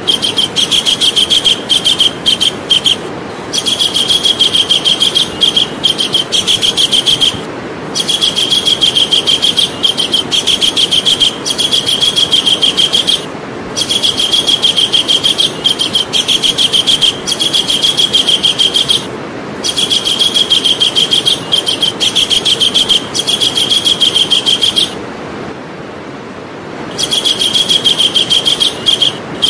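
Javan kingfisher calling loudly: long, fast series of sharp repeated high notes in bouts of several seconds, each broken off by a short pause, with a longer pause about 25 seconds in.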